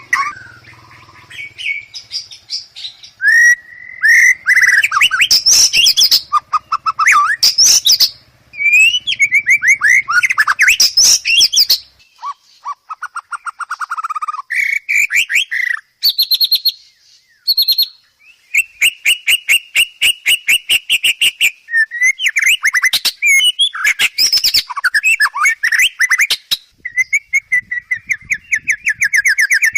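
White-rumped shama singing a long, varied song: loud whistled phrases, fast trills of rapidly repeated notes and short rattling runs, changing from phrase to phrase with brief pauses.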